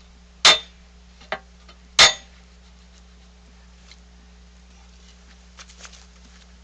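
Sharp metal clanks: two loud strikes about a second and a half apart with a lighter one between them, each ringing briefly, then a few faint clicks near the end, over a steady low hum.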